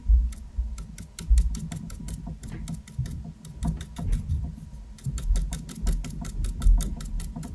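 Stiff, dry paintbrush dabbing repeatedly on a small stretched canvas: a run of quick, irregular taps, each with a dull low thud from the canvas.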